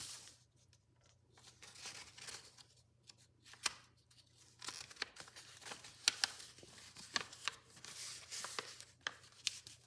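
A sheet of origami paper being handled by hand, unfolded and refolded, in intermittent rustles with sharp crackles as the creases are pressed.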